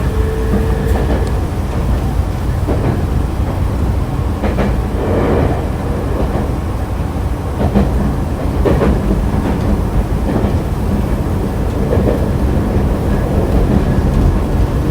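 Nankai electric train 'Kanata' (set 2036F) running along the line, heard from inside the car: a steady low rumble with irregular clacks of the wheels over rail joints. A faint rising motor tone fades out about a second in.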